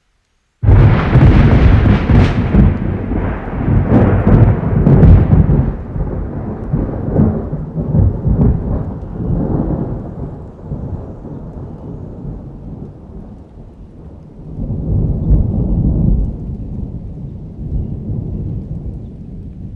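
Thunder rolling over steady rain, from a rain-and-thunder ambience recording. It starts abruptly about half a second in, rumbles loudly for several seconds and slowly dies away, then swells again briefly near the end.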